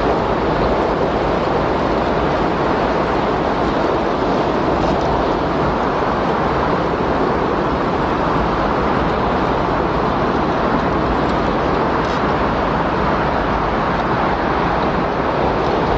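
Windstorm recording: a loud, steady rush of wind that does not rise or fall.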